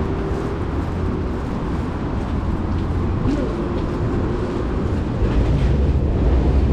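Steady low vehicle rumble with a faint thin whine above it, growing louder about five seconds in.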